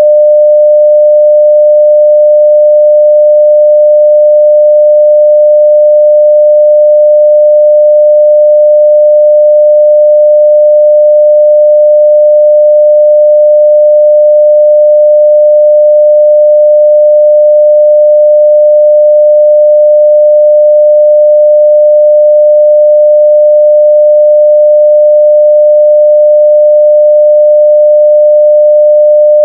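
Continuous 600 Hz sine-wave test tone at full level, a single steady pitch without any change.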